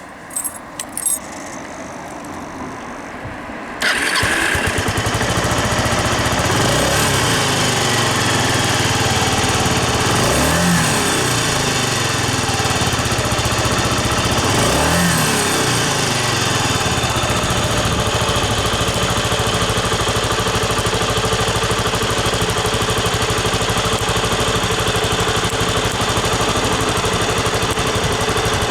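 Kawasaki Estrella 250's single-cylinder engine through its stock exhaust, starting about four seconds in after a few clicks, then idling steadily. It is revved briefly twice, near ten and fifteen seconds in, and each time drops back to idle.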